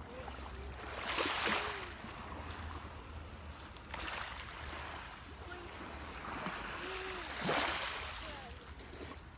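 Black Sea waves breaking on the beach in three surges about three seconds apart, each swelling into a hiss and then draining away.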